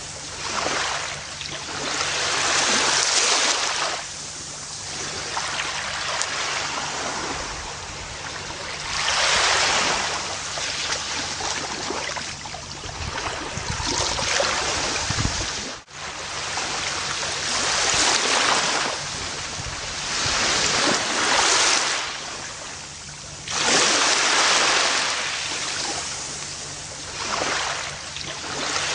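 Gentle ocean waves washing onto a beach, each wash swelling and fading every few seconds. The sound breaks off for a moment a little past halfway through.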